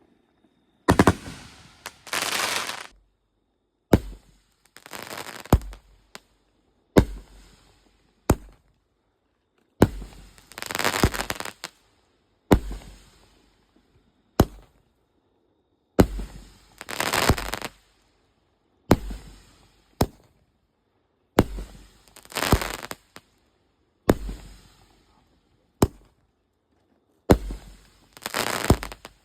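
Aerial fireworks going off in a steady series: a sharp launch bang, then about a second later a crackling burst overhead, repeating roughly every three seconds.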